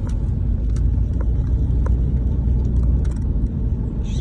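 Steady low rumble of a car driving, heard from inside the cabin, with faint scattered ticks and a brief high chirp near the end.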